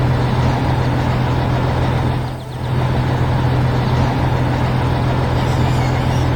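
Heavy construction vehicle's engine running with a steady low rumble, dipping briefly about two and a half seconds in.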